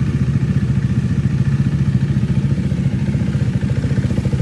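KTM RC390's single-cylinder engine idling steadily through an aftermarket slip-on exhaust, a fast, even putter that is not very wild in tone.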